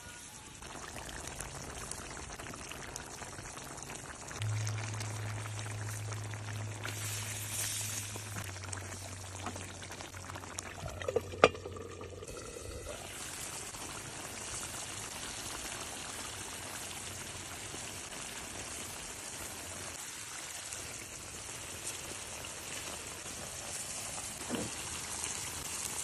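Chicken curry cooking in a pan, a steady sizzle and bubble of frying masala. A low hum runs through the first half, and a single sharp knock stands out about eleven seconds in.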